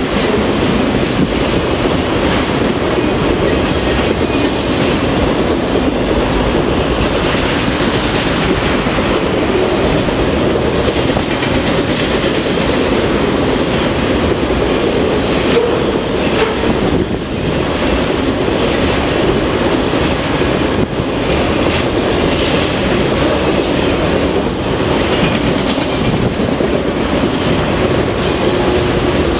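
Freight train of autorack cars passing close at speed: a steady, loud rumble and clatter of steel wheels on rail, with a couple of brief high wheel squeals.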